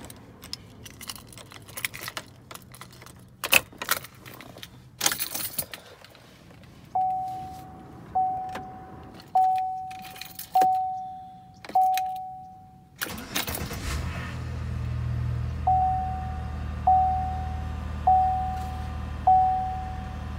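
Keys jangling and clicking in the ignition of a Chevrolet Impala, then the dashboard chime ringing a single tone a little more than once a second. About 13 seconds in, the 60-degree V6 cranks briefly and catches at once on a warm start. It settles into a steady idle while the chime keeps repeating.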